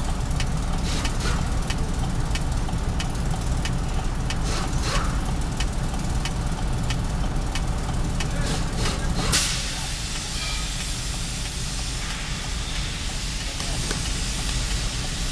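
Mercedes truck diesel engine idling with a steady rumble and a regular tick about twice a second, its number 4 cylinder not firing according to the diagnosis. About nine seconds in, a sharp burst is followed by a steady hiss.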